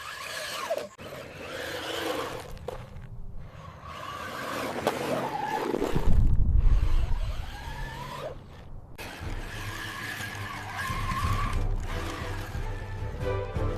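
Radio-controlled monster truck driving, its electric motor whine rising and falling, with tyre skids, in several short clips cut together.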